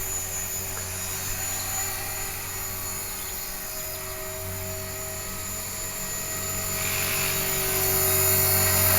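Electric 450-size RC helicopter (HK-450, a T-Rex 450 clone) hovering: a steady whine from its motor over the beat of the main rotor blades, getting louder over the last few seconds. Its freshly overhauled rotor head has the blades tracking true.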